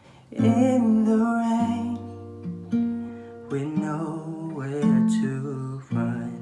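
Acoustic guitar playing the slow opening of a ballad. A chord is plucked about once a second and left to ring.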